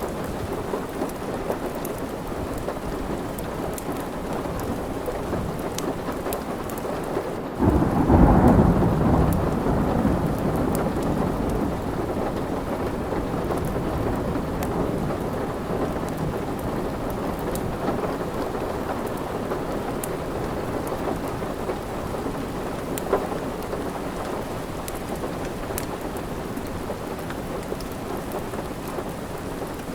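Steady rain with a clap of thunder about eight seconds in that rumbles away over the next few seconds, and sparse faint pops of a crackling wood fire.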